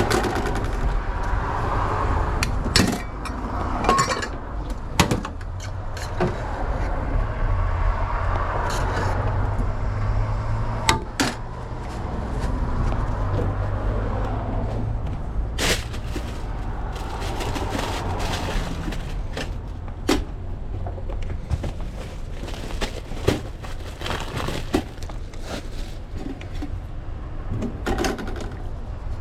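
Scattered clinks, clacks and knocks of utensils, lids and containers as food is made in a hot dog truck, over a steady low hum.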